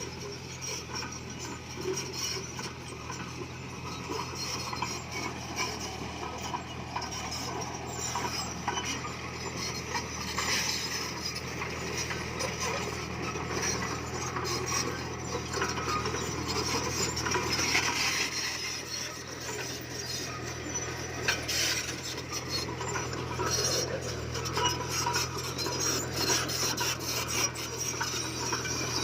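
Komatsu bulldozer's diesel engine running steadily, with a continuous scraping, grinding clatter of tracks and stone as it pushes fill.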